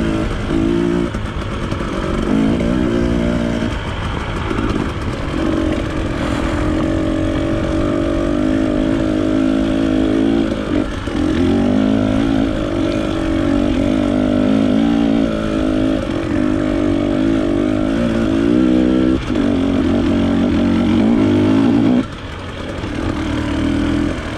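Off-road trail motorcycle engine running under constantly changing throttle, its pitch rising and falling as it is blipped and eased off. It goes briefly quieter near the end.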